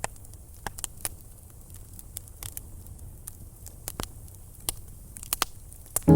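Campfire crackling, with irregular sharp pops and snaps over a low steady rumble of burning wood.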